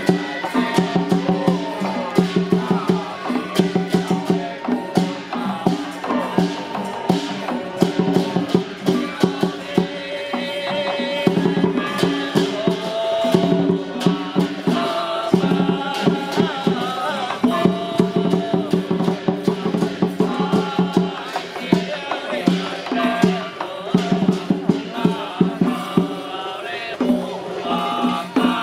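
Traditional Taiwanese temple ritual music: a sustained melodic or chanted line over rapid, rhythmic percussion strikes.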